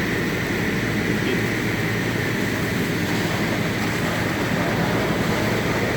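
Steady machinery noise: a low rumble with a constant high whine over a hiss, unchanging throughout, with no distinct knocks or crashes.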